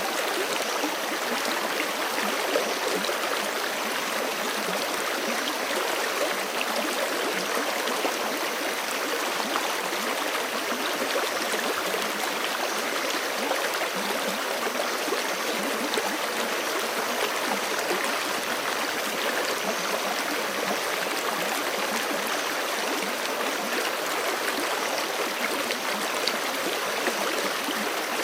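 Forest stream flowing steadily over rocks: a continuous, even rush and babble of water with no breaks.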